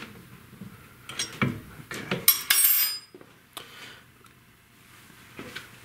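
Small metal parts clinking and clattering as they are handled and set into position during reassembly, with a louder metallic rattle about two and a half seconds in that lasts about half a second.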